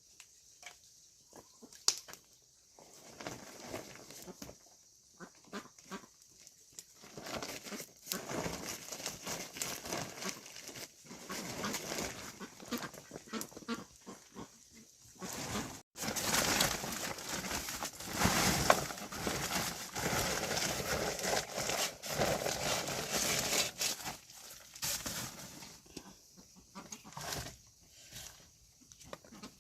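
Farm livestock moving about and calling, in irregular noisy bursts that grow denser and louder after an abrupt break about halfway through.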